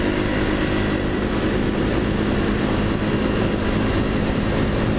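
Small-bore Honda dual-sport motorcycle's single-cylinder engine running at a steady cruising speed, its pitch holding even, with wind rushing over the helmet-mounted microphone.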